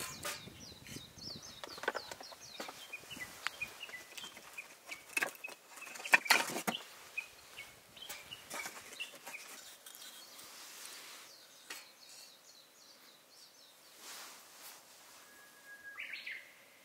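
Birds chirping outdoors, with several sharp knocks and clatters mixed in, the loudest about six seconds in.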